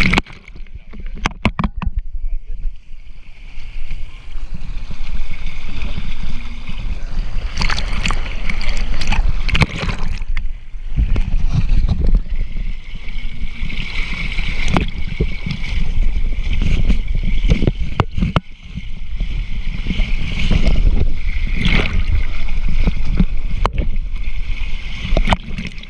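Water rushing and splashing in a water slide, with repeated knocks and bumps, picked up close on a GoPro's microphone.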